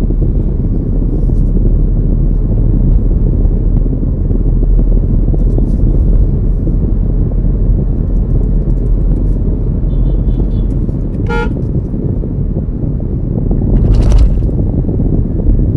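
Steady low rumble of car driving on the road, with a short horn toot about eleven seconds in and a brief louder rushing burst near the end.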